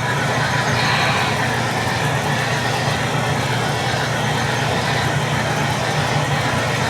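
HO scale model steam locomotive running, a steady low hum with hiss above it, fading in just before and fading out just after.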